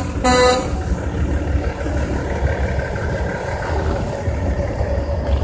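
A vehicle horn blasts once briefly at the start, over a steady low rumble of idling truck engines.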